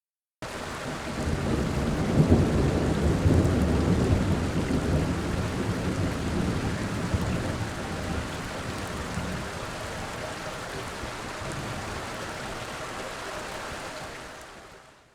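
Thunder rumbling over steady rain. It cuts in suddenly, swells a couple of seconds in and slowly dies away, leaving the rain hiss, which fades out near the end.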